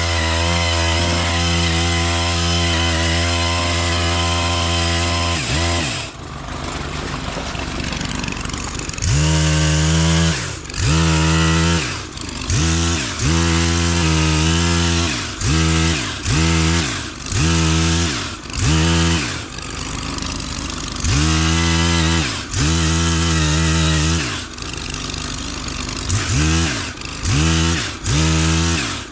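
Stihl KM 130R engine driving a pole saw attachment. It runs at full throttle for about six seconds, drops back, then revs up and falls back in a dozen or so short bursts as branches are cut.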